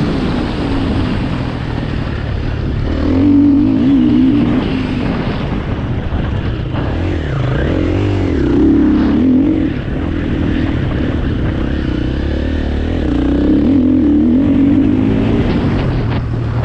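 2021 KTM 350 single-cylinder four-stroke enduro motorcycle ridden at full throttle, its engine revs climbing and dropping again and again.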